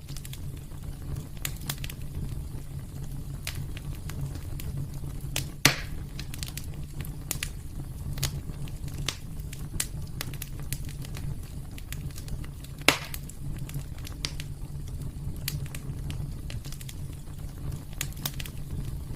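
Wood fire burning in a fireplace: a steady low rumble of flames with scattered sharp crackles. Two loud pops stand out, one near the middle and one about two-thirds of the way through.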